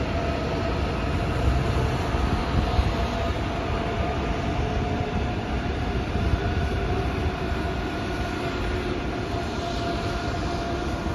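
ICE high-speed electric train running past on the tracks below: a steady rolling rumble with a faint, steady high tone over it.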